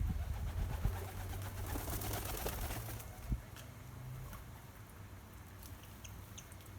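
Birds at a garden seed feeder over a steady low hum: a brief fluttering rush about two seconds in, a single knock, then a few short high chirps near the end.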